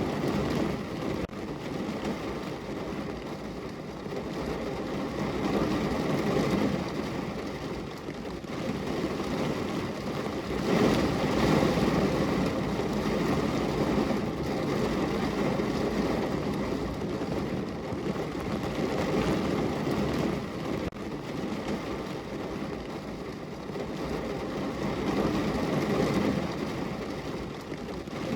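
Heavy rain drumming on the roof and body of a parked car, heard from inside the car. It is a steady wash of patter that swells and eases every few seconds and is heaviest about eleven seconds in.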